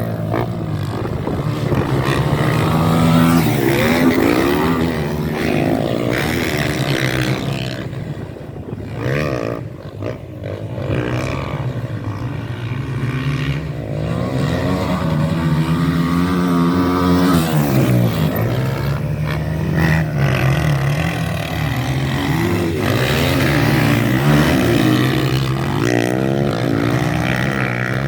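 Motocross bikes racing on a dirt track, their engines revving up and down in pitch as they accelerate, shift and pass, with a brief lull about ten seconds in.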